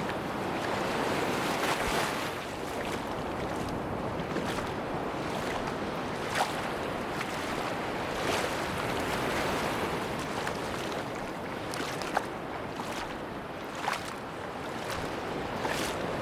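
Sea waves washing onto a beach with wind, a steady rushing that swells and eases slowly, with a few short sharp clicks standing out now and then.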